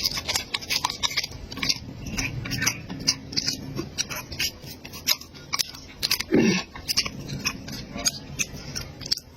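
Close-miked chewing and biting of food, with many short crisp clicks and smacks, and a brief falling vocal sound about six and a half seconds in.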